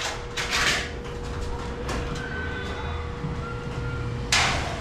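Metal ceiling framing being worked, with two short scraping swishes of metal, one about half a second in and a louder one near the end, and light clicks and brief squeaks between.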